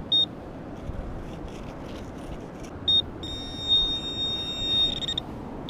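Metal detector giving short high beeps, then a steady high-pitched tone for about two seconds, sounding off on a shallow target in the dirt.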